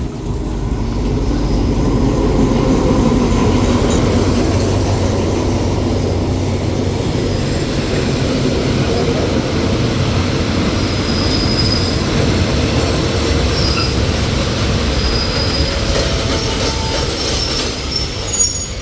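Train running along the rails, a steady rumble and rattle of wheels on track, with short high-pitched wheel squeals now and then in the second half.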